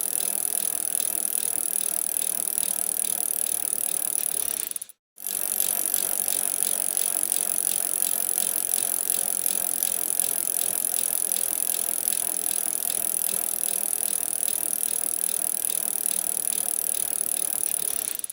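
Bicycle being ridden: steady rattling and tyre and riding noise from the bike, cutting out for a moment about five seconds in.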